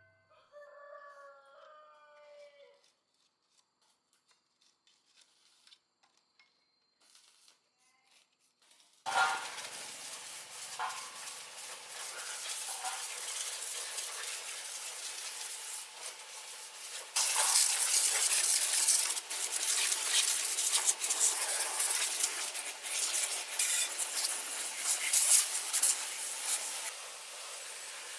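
A rooster crows faintly at the start. From about nine seconds in there is a steady hiss with scattered clicks and rattles, which gets louder about halfway through.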